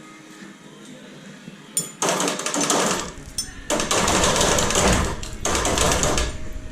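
Pneumatic impact wrench rattling in three long bursts, starting about two seconds in, as bolts are worked loose during an engine removal.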